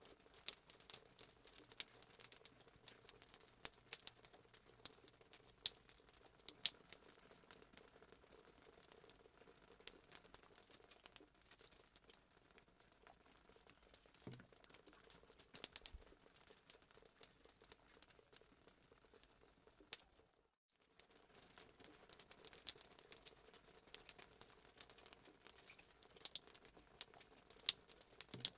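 Fireplace sound effect: a wood fire crackling faintly with irregular sharp pops, cutting out for a moment about twenty seconds in.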